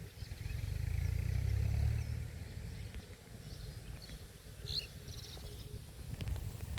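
Wind buffeting the microphone as a low rumble for the first two seconds or so, then quieter open-air ambience with a brief bird chirp a little past the middle.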